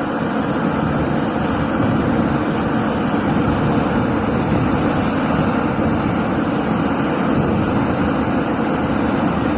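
Excavator's diesel engine running steadily, heard close.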